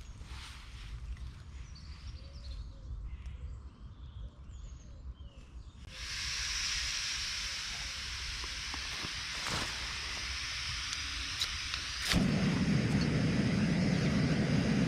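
Faint birds chirping in woodland. About six seconds in, a fire takes over with a steady hiss and a few sharp pops, and it grows louder with a low rushing sound near the end.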